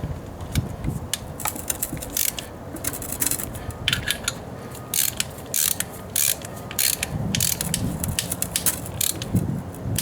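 Hand ratchet wrench clicking in irregular runs as bolts are run in and tightened during engine reassembly, with sharp metallic clicks and short scraping bursts of tools on metal.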